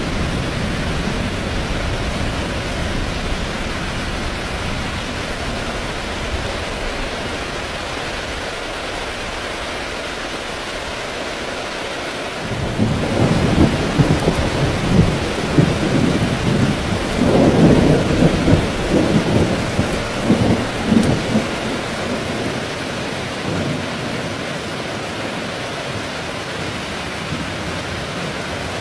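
Heavy rain falling steadily. Just under halfway through, a long roll of thunder starts, rumbles unevenly for several seconds and dies away, leaving the rain.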